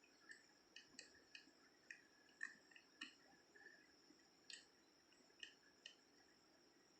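Faint, irregular metallic clicks, about a dozen, from a leaf-type pick tool working the wafers of a safe lock one at a time.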